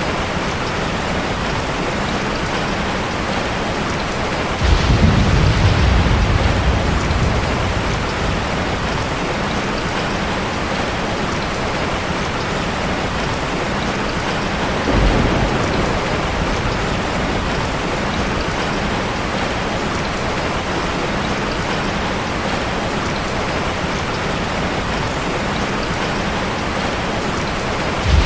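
Heavy rain falling in a steady, dense hiss. About five seconds in, a deep rumble of thunder swells and fades over a few seconds, and a shorter rumble comes about halfway through.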